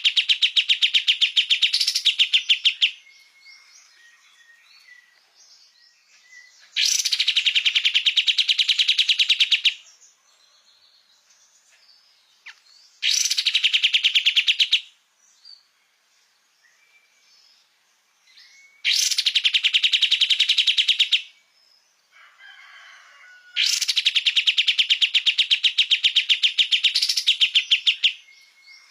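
Kapas tembak songbird singing in long bursts of very rapid, evenly repeated high notes, each burst two to four seconds long. The bursts come about every five to six seconds, with faint softer calls in the gaps between them.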